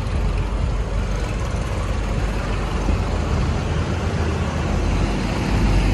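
Street traffic noise: a steady low rumble of vehicle engines going by, swelling slightly near the end.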